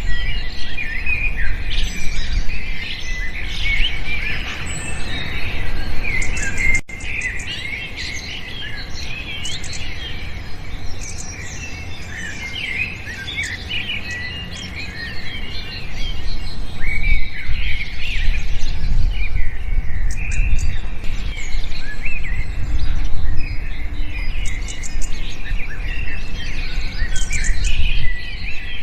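Many small birds chirping and twittering at once, a dense chorus of short high calls, over a low rumble. The level drops suddenly about seven seconds in and rises again about halfway through.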